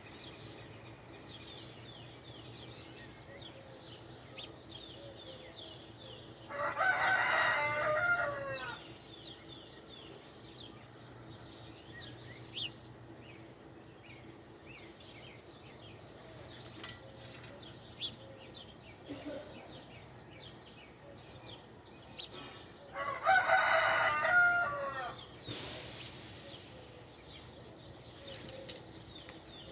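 A rooster crowing twice, each crow lasting about two seconds, the second about sixteen seconds after the first. Small birds chirp faintly in between.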